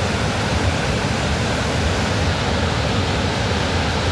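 Loud, steady rush of fast-flowing white water.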